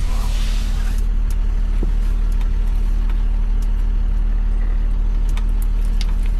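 Jeep Wrangler's engine idling steadily, with a few light clicks.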